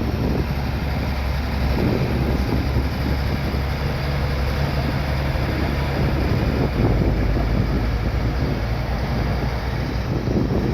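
Bulldozer's diesel engine running steadily, with wind buffeting the microphone.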